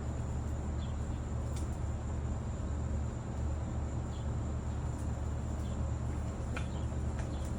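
Steady outdoor ambience: a constant low hum under a thin, steady high insect-like drone, with a few faint sharp ticks scattered through it.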